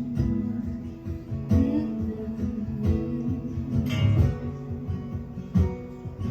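Acoustic guitar playing an instrumental intro, plucked and strummed chords.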